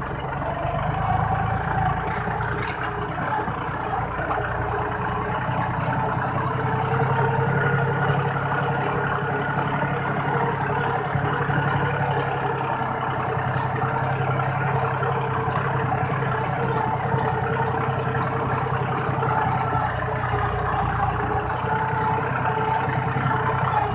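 Iseki 40 hp tractor's diesel engine running steadily under way, heard through an aftermarket "fuel-saving" exhaust pipe.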